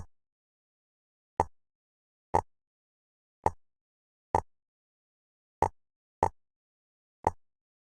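Jigsaw puzzle pieces clicking into place: eight short, sharp clicks at uneven intervals of about a second, with dead silence between them.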